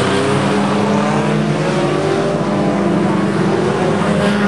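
Several banger racing cars' engines running hard around a shale oval, their overlapping engine notes rising and falling as they lap.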